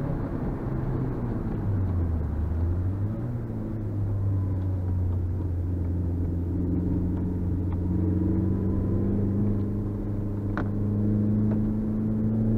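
Suzuki Swift Sport's 1.6-litre four-cylinder engine and tyre noise, heard inside the cabin while driving. The revs fall over the first couple of seconds, then the car pulls steadily with the revs slowly rising. There is a small click about ten and a half seconds in.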